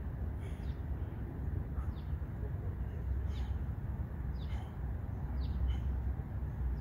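Birds chirping, short high calls about once a second, over a steady low rumble.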